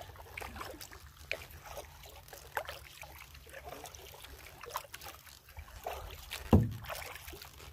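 Canoe paddle strokes in calm water: soft drips and small splashes about once a second, with one louder knock about six and a half seconds in.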